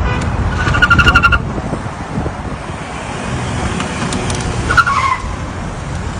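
Car on the road with a steady low rumble. A high, rapidly pulsing squeal comes from about half a second to a second and a half in, and a shorter squeal falls in pitch near five seconds.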